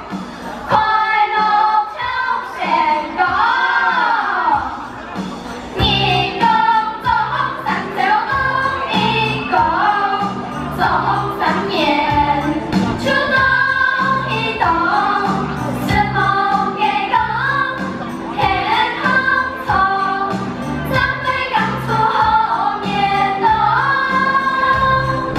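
Singers performing a Hakka children's song with musical accompaniment; a steady bass beat comes in about six seconds in.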